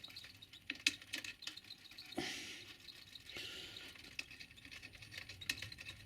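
Faint scattered ticks and rustles of a static grass applicator being shaken and tapped, with a brief hiss of rustling about two seconds in.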